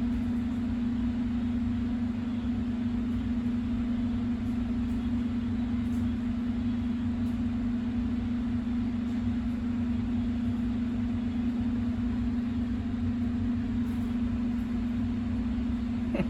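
Steady low machine hum with a constant low tone and rumble beneath it, unchanging throughout.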